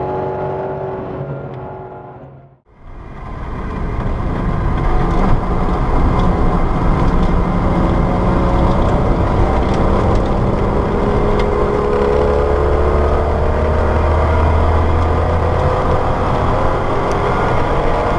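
Alfa Romeo Milano's 3.5-litre engine running hard on track, its pitch climbing steadily as the car accelerates through a gear, with wind and road noise, heard from inside the cabin. A couple of seconds in, the sound dips out briefly and comes back.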